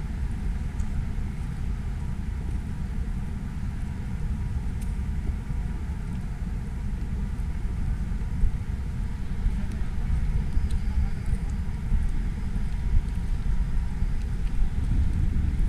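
Steady low rumble of city road traffic, growing slightly louder near the end.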